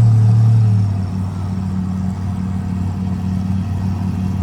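Car engine idling with a deep, steady exhaust drone, a little louder for the first second before settling to an even level.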